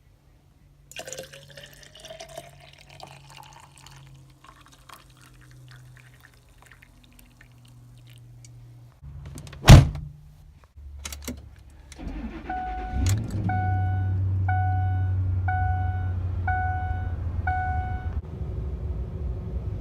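Light clicks and rustling, then one loud slam like a vehicle door shutting about ten seconds in. A vehicle engine starts about three seconds later and idles, while a dashboard warning chime beeps about eight times, a little under a second apart, then stops.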